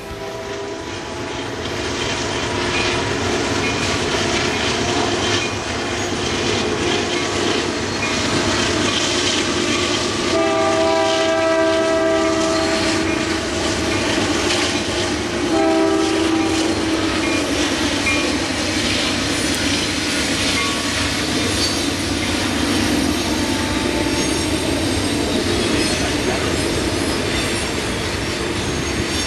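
Norfolk Southern diesel freight train running past with steady rumble and rail clatter from its hopper cars; the locomotive horn sounds one long blast about ten seconds in and a short blast a few seconds later.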